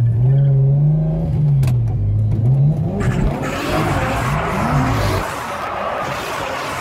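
Drift car engine revving up and down several times. From about three seconds in, the tyres squeal as the car slides.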